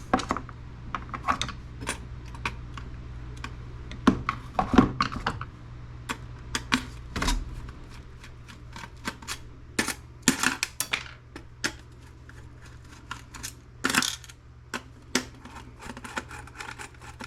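Irregular sharp metallic clicks and clinks of a screwdriver, screws and small metal parts as the chip-holder frame and bottom bracket are unscrewed from a desktop computer motherboard.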